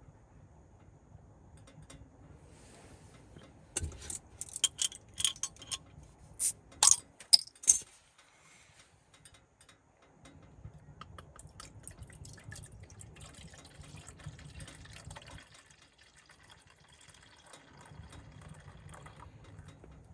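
A quick run of sharp clinks and clatters from small hard objects being handled, a few seconds in, followed by a low rumbling background with faint ticking.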